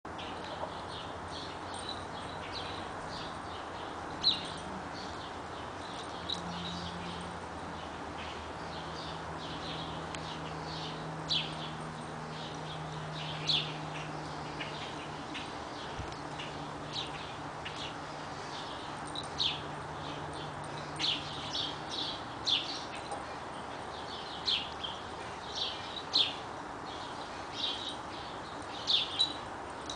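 Small birds chirping: short high calls scattered throughout, more frequent in the second half, over a steady low background hum.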